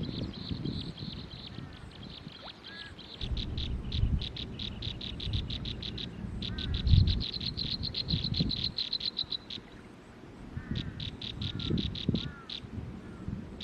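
Rapid, high-pitched pulsing trills from a small animal. They come in several runs of many quick pulses that stop and start, with a few faint short chirps and low thuds and rustles underneath.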